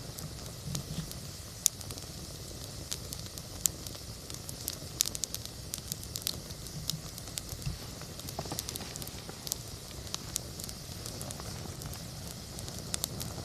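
Wood campfire burning, with irregular sharp crackles and pops over a steady low rush of the flames.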